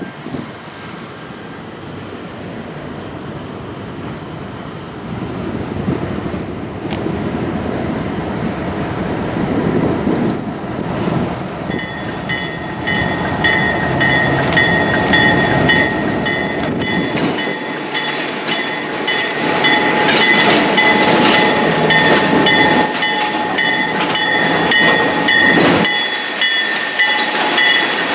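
ALCO RS-11 diesel locomotive and train approaching, the rumble of engine and wheels growing steadily louder. From about twelve seconds in, a bell rings rapidly over it.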